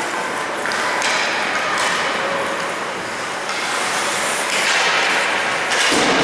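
Ice hockey play in a rink: a steady wash of arena noise with several short, sharp scrapes and knocks from skates, sticks and the puck.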